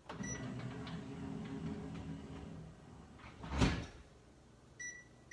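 Microwave oven running with a steady low hum that dies away about two and a half seconds in. A single thump of the microwave door shutting follows about a second later. Near the end come a few short high keypad beeps as the microwave is set again.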